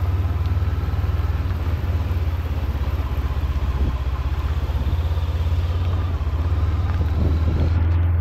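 Honda CB500X parallel-twin engine running steadily under way, its low pulsing drone over a steady hiss.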